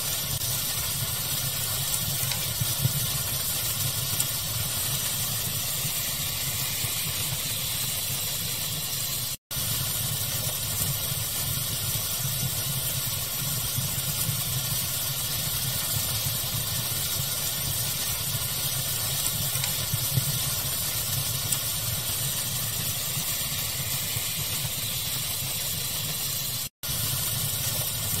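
Steady rushing hiss of pink noise mixed with a fire ambience, with a few faint crackles. The sound cuts out completely for a split second twice: about nine seconds in and near the end.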